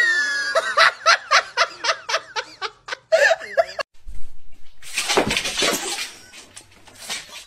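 A person laughing hard in a quick run of pitched bursts, then a longer breathy laugh about five seconds in.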